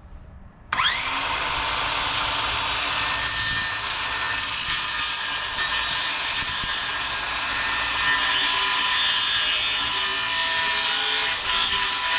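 Circular saw spinning up with a rising whine about a second in, then cutting steadily along a curved line through plywood to round off a corner.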